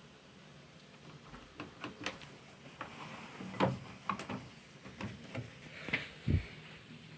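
Irregular clicks and knocks from a Beko WMB61442 washing machine being handled, with a heavier low thump near the end.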